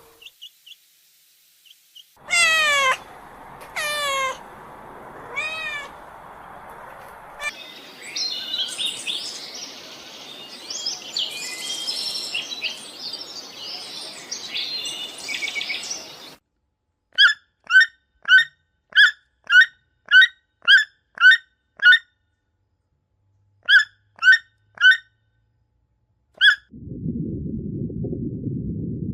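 A run of different animal calls: a few long falling calls, then busy, chattering bird calls, then a series of short, evenly repeated chirps, about two a second, before a low steady sound starts near the end.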